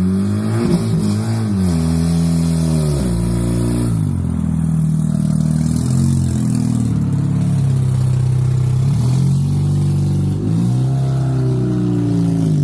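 Mazda RX-8's twin-rotor Wankel rotary engine running under light throttle as the car is driven slowly, its pitch rising and falling several times. The car is running again after sitting unused for over two years.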